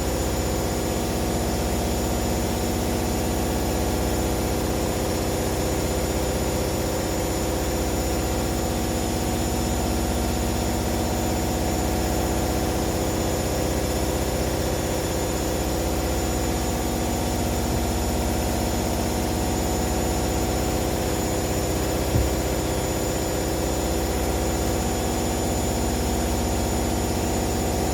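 Two front-loading washing machines, a Hoover H-Wash 300 and a Hoover Dynamic Next, spinning at high speed together. They make a steady whine over a deep hum, and the drum sounds like it might explode. A faint single knock comes about 22 seconds in.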